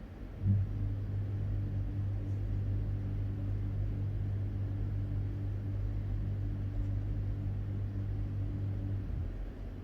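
A steady low machine hum, switching on with a brief jolt about half a second in and cutting off shortly before the end.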